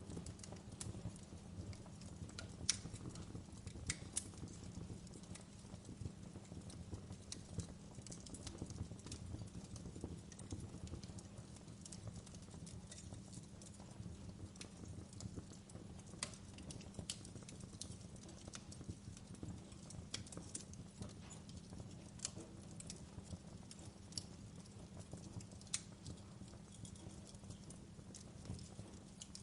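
Campfire burning, with irregular sharp crackles and pops, a few louder than the rest, over a steady low rumble.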